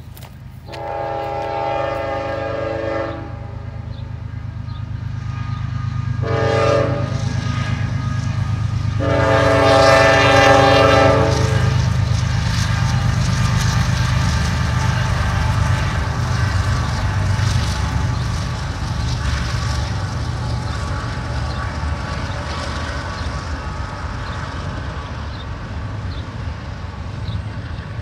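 A CSX freight train's locomotive horn sounds three blasts in the first twelve seconds: long, short, then long. The locomotives' diesel engines then run steadily as the train passes, with the wheels clacking over the rails.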